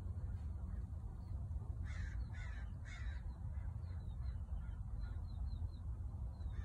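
Three harsh, caw-like bird calls in quick succession about two seconds in, over faint, repeated high chirps from small birds and a steady low rumble.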